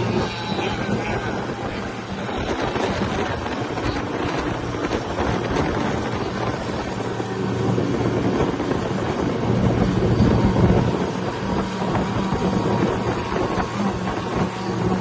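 Radio-controlled offshore racing boats running on the water, a steady motor drone that swells louder about two-thirds of the way through.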